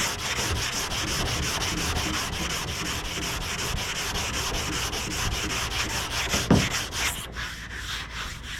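Hand block sanding of automotive primer with 180-grit sandpaper: quick, even back-and-forth strokes of the sanding block on the panel. It is the blocking stage of primer prep, knocking down the guide coat to show low areas.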